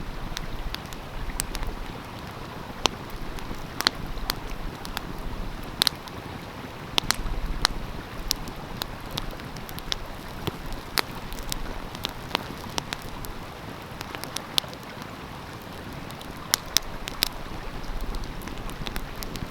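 Wood fire crackling with frequent sharp pops and snaps, over the steady rush of a flowing stream.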